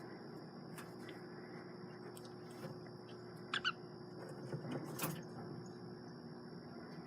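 Male budgerigar giving two short, quick chirps about halfway through, then a few softer sounds and a sharp click, over a steady background hum.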